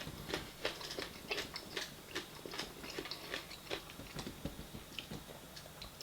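A person chewing food close to the microphone: a run of soft, irregular mouth clicks, about two or three a second.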